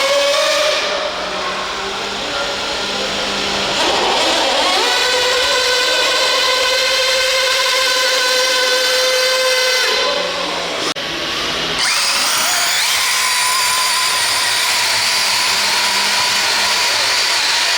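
An RC pulling truck or tractor's motor and gears whine at a high pitch under load, climbing in pitch as it builds speed and then holding steady. The whine cuts out about ten seconds in and starts again a couple of seconds later.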